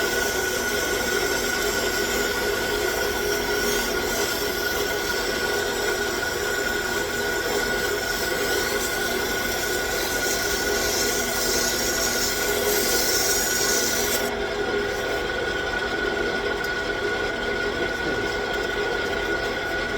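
A 9x20 gear-head lathe runs steadily with a constant high tone while aluminum oxide abrasive paper is held against the spinning workpiece, making a hissing rub. The hiss drops away about fourteen seconds in, and the lathe keeps running.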